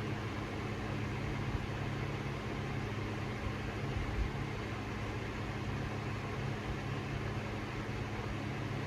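Harbor Breeze Cheshire 52-inch ceiling fan running on high speed: a steady rush of moving air with a low, steady motor hum.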